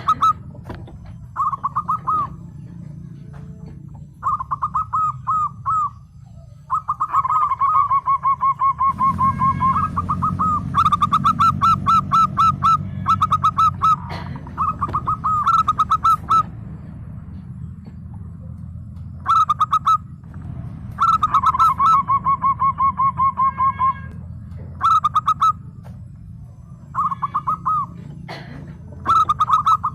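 Zebra dove (perkutut) cooing in repeated phrases of rapid, rolling notes. Each phrase lasts a second or two, with short pauses between them. A steady low hum runs underneath.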